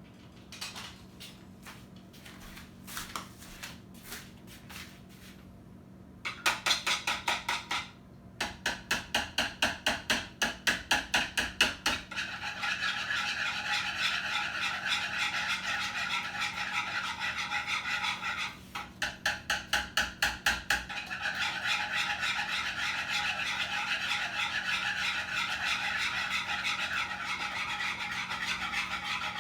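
Eggs being whisked in a bowl: a few scattered taps, then from about six seconds in a rhythmic clatter of the whisk against the bowl at about four to five strokes a second, quickening into a continuous fast beating with one more run of separate strokes about two-thirds of the way through.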